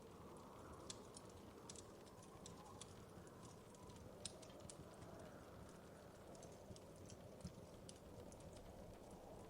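Wood fire in a fireplace crackling faintly: irregular small pops and snaps over a soft, steady low rumble of the flames.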